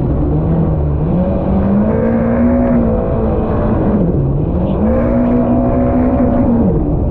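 Supercharged Yamaha SVHO four-cylinder engine of a race-hull jet ski running under throttle. Its pitch climbs about a second in, dips sharply around four seconds, climbs again, and drops near the end as the throttle is eased and reopened.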